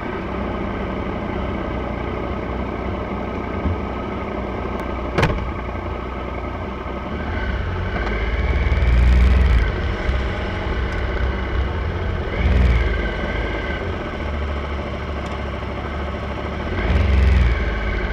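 Motorcycle engines running slowly, the nearest being the Triumph Tiger 1050's three-cylinder engine. The engine note swells louder and rises three times as the throttle is opened in low gear. There is one sharp click about five seconds in.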